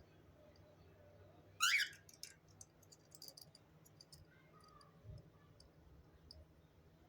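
A small pet parrot gives one short, shrill chirp about a second and a half in, then makes scattered faint clicks and taps.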